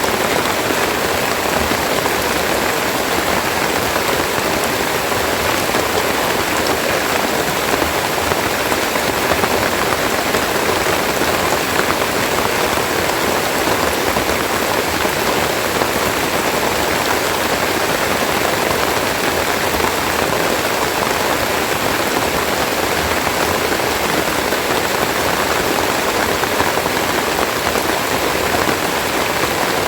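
Steady heavy rain falling, an even hiss of raindrops striking leaves and other surfaces.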